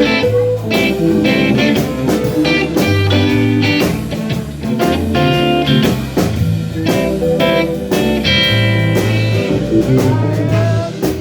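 Live blues band playing an instrumental break: guitar lead over bass and a steady drum beat.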